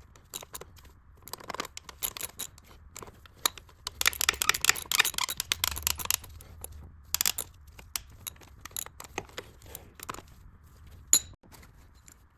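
Socket ratchet clicking in quick runs with short pauses as the 10 mm thermostat housing bolts are snugged back up.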